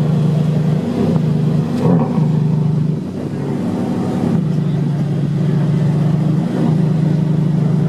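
V12 supercar engine running at low speed with a steady drone, broken by a few short throttle blips.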